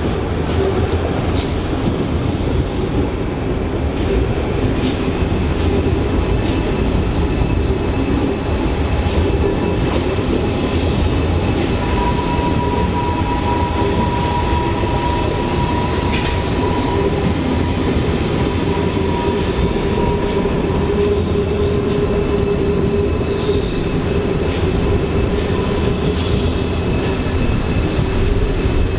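A train moving through the station, a steady loud rumble with held squealing tones and scattered sharp clicks of wheels over rail joints and points.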